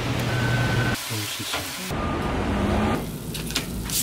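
Rainy city street ambience: a steady hiss of rain and wet traffic, in short clips that cut abruptly about once a second.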